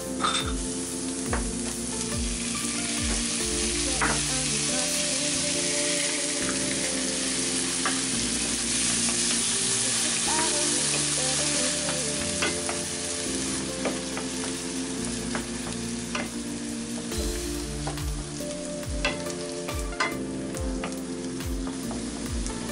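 Chopped onion and then chopped tomatoes sizzling as they fry in olive oil in a nonstick frying pan, stirred with a wooden spoon that scrapes and taps against the pan.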